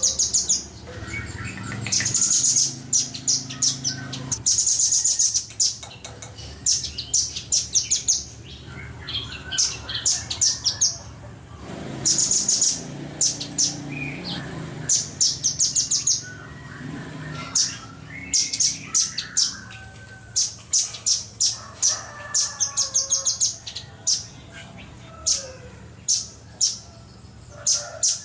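Velvet-fronted nuthatch (red-billed nuthatch) singing: repeated short bursts of very rapid, high, sharp trilling notes, each run lasting about a second with brief pauses between them. Fainter lower chirps sound underneath.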